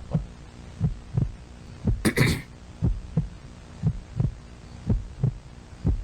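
Heartbeat sound effect: a slow double thump repeating about once a second, with a brief hissing burst about two seconds in.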